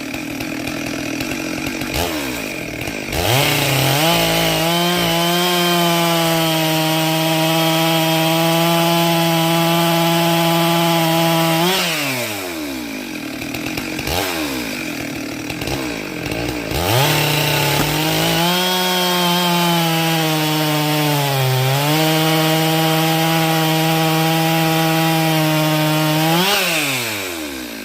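Two-stroke chainsaw revving up and held at full throttle for about eight seconds, then dropping back. It revs up again for about nine seconds, with a brief dip in pitch partway through, before slowing down near the end.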